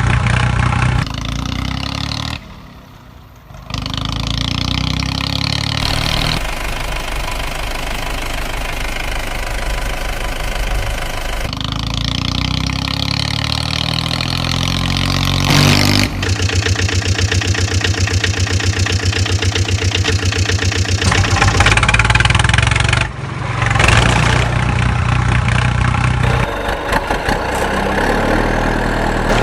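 Vehicle engine sounds, idling and revving, in edited blocks that change abruptly every few seconds. There is a brief drop in sound about three seconds in.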